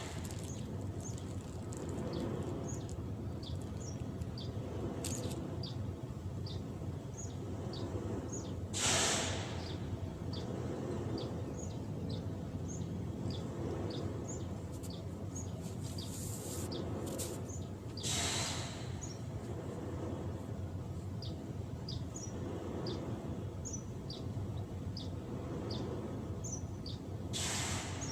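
Steady outdoor background noise with short, high chirps repeating about twice a second. A brief hissing rush comes three times, about every nine seconds.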